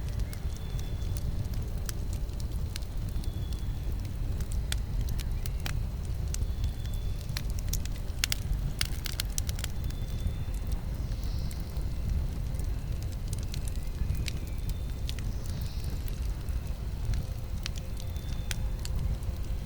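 Campfire burning: a steady low rumble with scattered crackles and pops from the burning wood, and a quick flurry of pops about eight to nine seconds in. A faint, short, high note comes back every few seconds.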